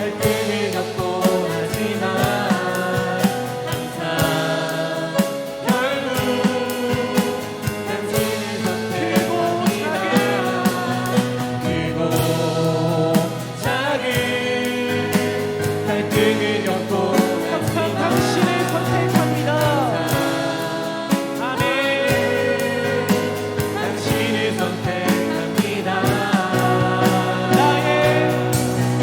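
Contemporary worship song: voices singing over instrumental accompaniment with a steady beat.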